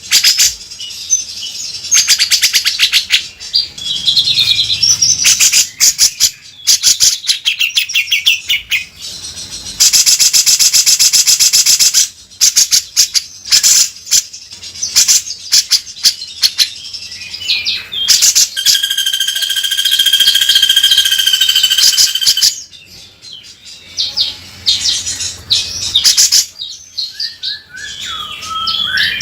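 Grey-cheeked bulbul (cucak jenggot) singing loudly and without pause, a harsh, rough rasping song ('beset kasar') of chattering notes and rattles. A solid rattle lasts about two seconds near the middle, and steady whistled notes are held for a few seconds about two-thirds of the way through.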